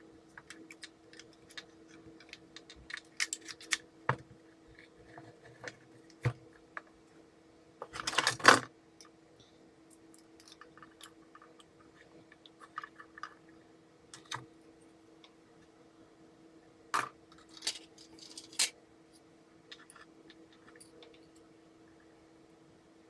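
Small hard parts and hand tools handled during a repair, giving scattered clicks and taps, a brief louder clatter about eight seconds in, and three sharp clicks near the end, over a faint steady hum.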